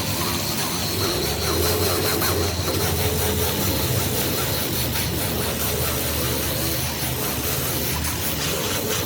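A machine running steadily: a continuous low hum with a faint, slightly wavering whine above it.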